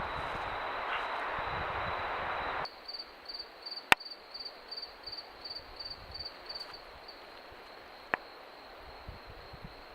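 Outdoor ambience: a steady rushing noise cuts off abruptly about a quarter of the way in. A quieter background follows, with a quick run of high, evenly spaced chirps, about three a second, for about four seconds, and two sharp clicks.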